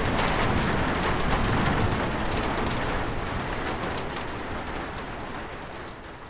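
Steady rain falling and pattering on surfaces, a dense even hiss that fades gradually away over the last few seconds.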